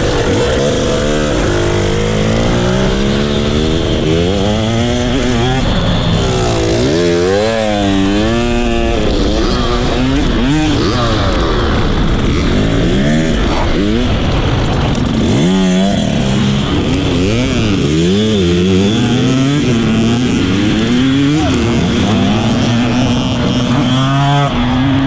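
Dirt bike engine revving up and down again and again as it is ridden around a motocross track. The pitch climbs and drops with each throttle change and shift, and wavers quickly for a couple of seconds about a third of the way in.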